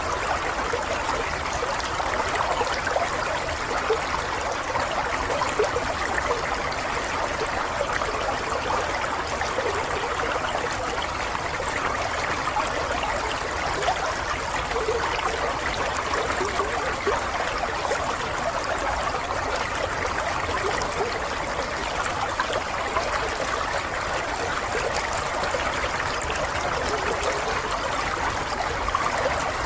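Steady flowing water, like a small stream trickling and babbling over stones, running without change.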